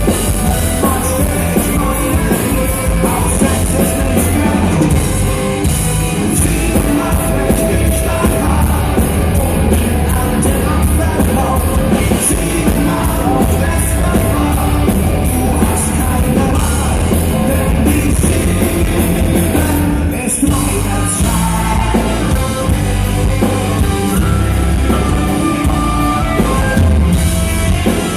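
Folk-metal band playing live, with a sung vocal over drum kit and band at full volume.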